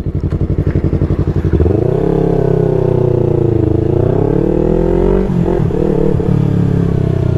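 Yamaha R3's parallel-twin engine idling, then revved up about a second and a half in and held at raised revs with the pitch wavering up and down, dropping back a little after five seconds with one more short blip before settling.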